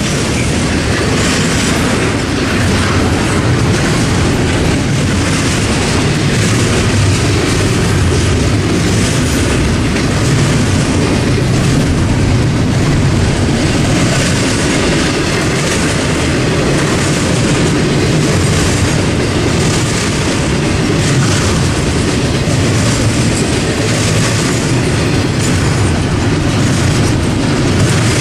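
Double-stack container freight train passing: a loud, steady rumble and clickety-clack of steel wheels rolling on the rails, with no break.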